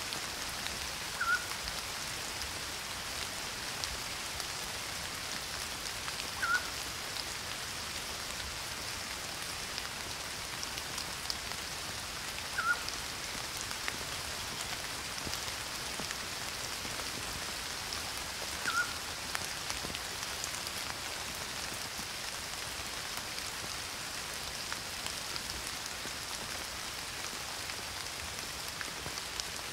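Steady rain, an even dense hiss of falling drops. A short, high rising blip cuts through about every six seconds, four times.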